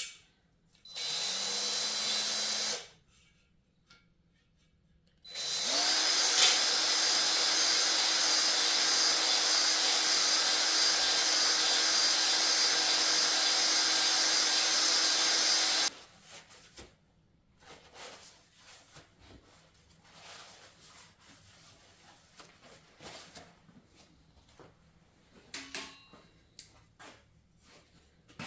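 Electric drill spinning a cylinder hone with 320-grit stones inside a cylinder of an LS6 V8 block: a short run of about two seconds, then after a pause a longer run of about ten seconds, each winding up quickly, holding steady and stopping abruptly, followed by faint clicks. A light hone to break the glaze and leave a fresh crosshatch so new moly rings can seat.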